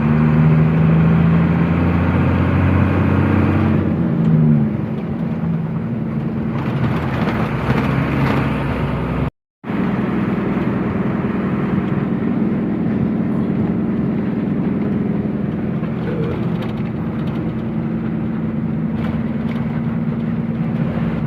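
Truck engine running on the road, its revs falling about four seconds in. After a short break to silence near the middle it settles into a steady drone.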